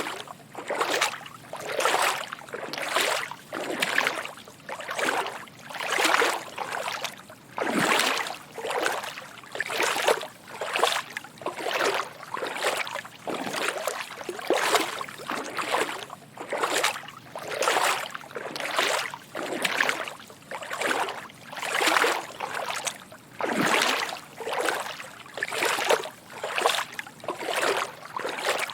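Footsteps wading through shallow water: a steady rhythm of soft splashing sloshes, a little more than one step a second.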